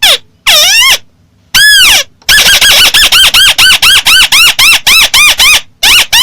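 Amplified recording of the 'mắt xéo' bird's call: loud, arching whistled notes with ringing overtones. Two longer notes come first, then a quick run of about four to five notes a second, broken briefly near the end.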